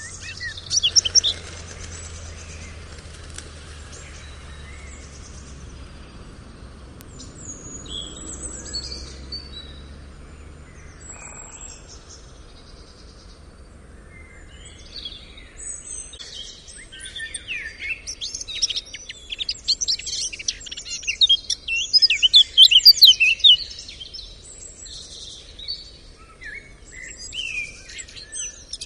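Songbirds chirping and twittering in many short, high calls, thickening into a loud, busy chorus of chirps in the second half. A faint low hum lies under the first third and stops about ten seconds in.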